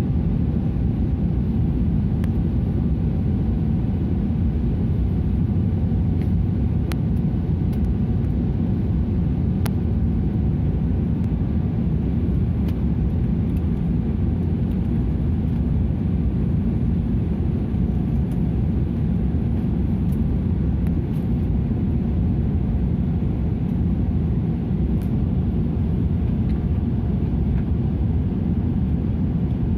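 Steady low rumble of an airliner in flight, engine and airflow noise heard inside the passenger cabin, with a few faint ticks over it.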